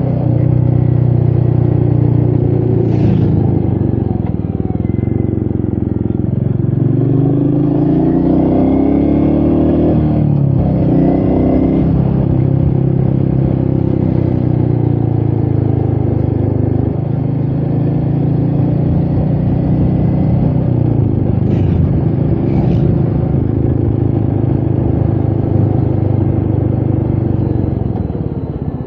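Royal Enfield Meteor 350's single-cylinder engine running on the move, its note rising and falling several times with throttle and gear changes, under a haze of wind noise. A few short clicks come through about three seconds in and twice around twenty-two seconds, and the engine eases off near the end.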